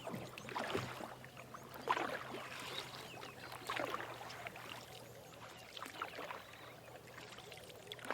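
Water splashing and trickling in irregular strokes, roughly one a second, over a faint steady low hum.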